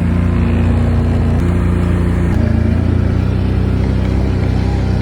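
Tractor engine running steadily, its pitch stepping slightly lower a little over two seconds in.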